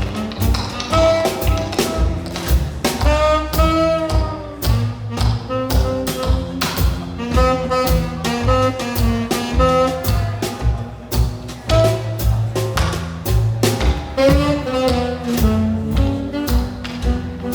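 Small live swing-jazz combo playing: saxophone melody over a walking double bass and drums, with a dense run of short percussive strikes throughout.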